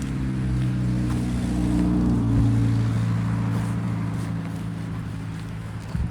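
A motor vehicle's engine running close by with a steady low hum, growing louder to a peak about two seconds in and then slowly fading, as a car or truck passing on the road.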